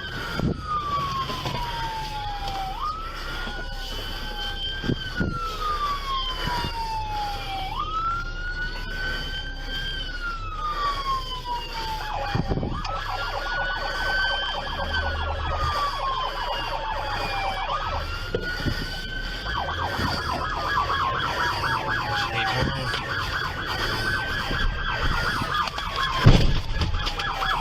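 Police car siren wailing, each cycle rising quickly and falling slowly, repeating about every five seconds. About halfway a second siren joins in a rapid yelp. There is a brief knock near the end.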